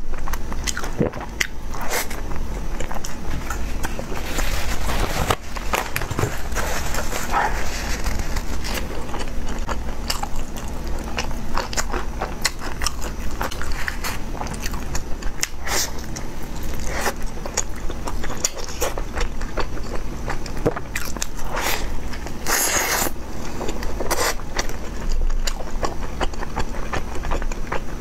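Close-miked eating sounds of a person biting and chewing a homemade steamed bun (baozi), with many short wet clicks throughout.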